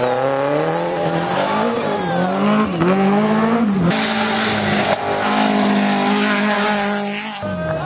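Historic rally car engine revving hard, its pitch climbing and dropping sharply at each gear change, with tyre squeal and road noise layered over it in the second half.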